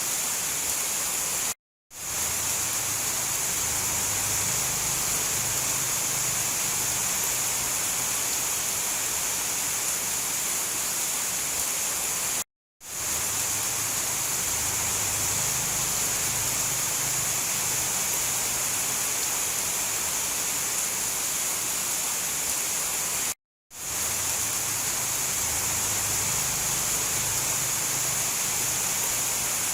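Steady heavy rain, an even rushing hiss with a low rumble beneath. It cuts out to silence for a fraction of a second three times, about every eleven seconds, and swells back in each time, the seams of a repeating loop.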